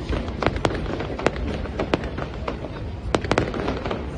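Fireworks exploding in an irregular run of sharp bangs, several a second, over a continuous low rumble.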